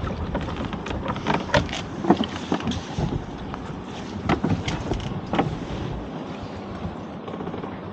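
A lobster pot being hauled aboard a small boat: a run of sharp knocks and clatters over a steady rumble of wind and boat.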